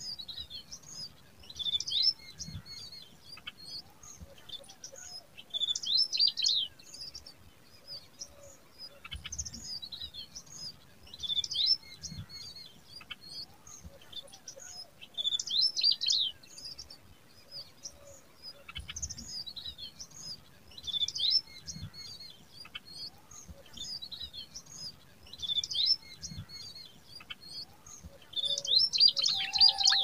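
Small birds chirping: short clusters of high, quick chirps every few seconds, with a louder, busier burst near the end.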